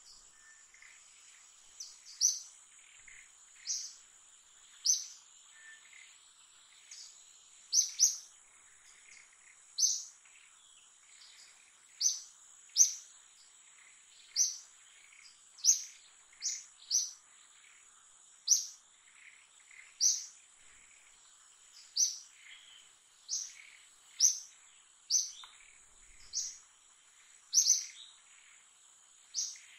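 A bird gives short, sharp, high chirps, one every one to two seconds, over a steady high-pitched insect drone.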